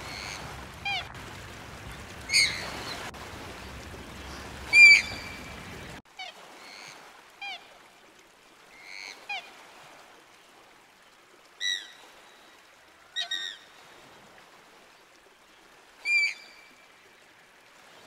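A bird giving short, sharp calls, a dozen or so at irregular intervals, some louder than others. A low rumble underneath stops suddenly about six seconds in.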